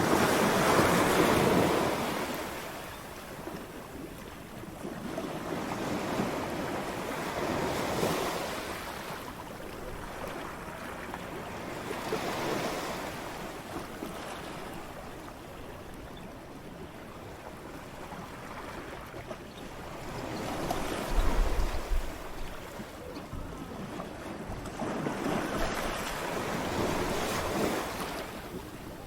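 Ocean waves breaking and washing up a shore in repeated surges, each rising to a hiss and falling away. The loudest break comes at the start, and further swells follow every few seconds.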